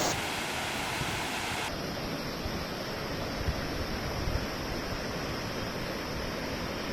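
Steady rushing noise of falling water from a waterfall, changing abruptly in tone about two seconds in.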